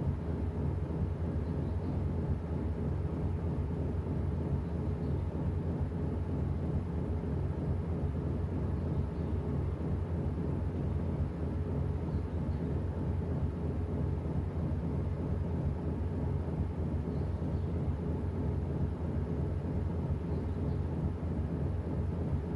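Washing machine running, a steady low rumble from the turning drum and motor.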